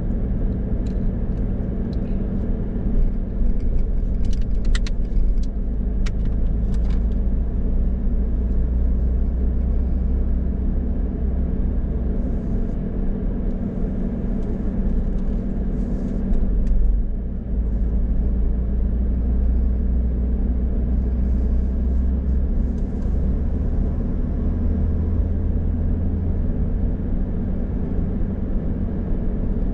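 A car on the move: steady low road and engine rumble, with a few faint clicks about four to seven seconds in.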